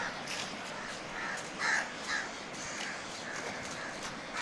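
Crows cawing several times in short calls over the steady rush of the Swat River's water.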